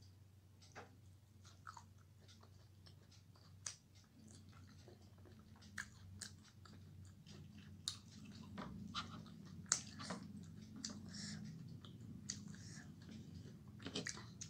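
Chewing and wet mouth smacks of a person eating rice and fish curry by hand, with scattered sharp clicks. The eating sounds get busier and a little louder after about four seconds.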